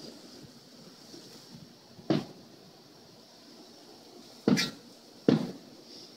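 Aerial fireworks bursting: three sharp bangs, one about two seconds in and two close together near the end, each with a short echoing tail.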